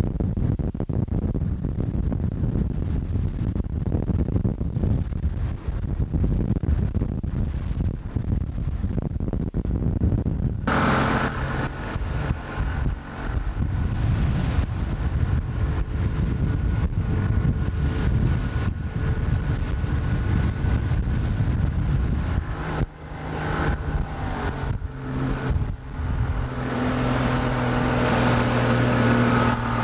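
Wind buffeting the microphone over a low rumble. About ten seconds in, a boat engine's steady pitched hum takes over and keeps running, its pitch shifting a few seconds before the end.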